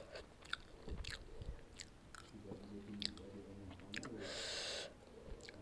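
Close-miked chewing of spicy instant noodles, with wet mouth clicks scattered throughout. There is a short hiss about four seconds in.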